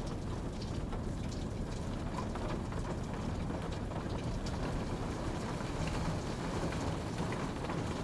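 Steady rain falling, a dense low rushing with many small drop ticks scattered through it.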